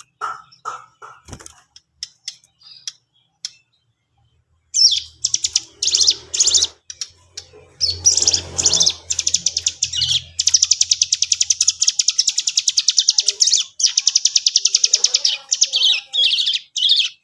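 Cigun bird song: a few scattered chirps, then from about five seconds in loud, high-pitched chattering phrases, including a long, very fast trill of repeated notes near the middle. A faint low hum runs beneath part of the song.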